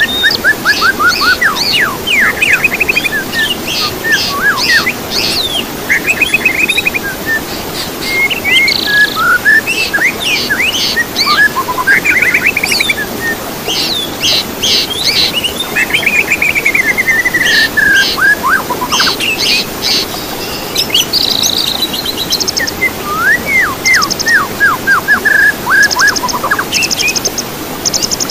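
Several songbirds singing together in a dense, unbroken chorus of varied chirps, rapid trills and falling whistles, over a steady background hiss.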